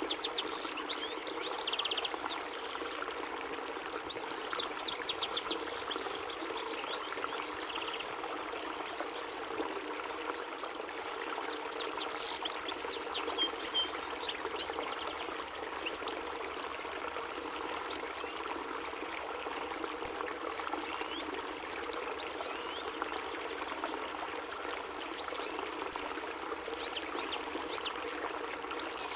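European goldfinch singing: bunches of quick, twittering high chirps and short buzzy trills that come and go, over a steady sound of running water.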